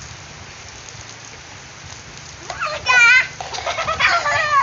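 Steady rain falling, then a child's high, wavering shriek about two and a half seconds in, followed by more excited child vocalising over the rain.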